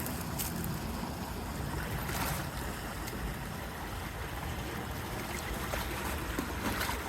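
Fast-moving creek water rushing steadily, with a few faint splashes.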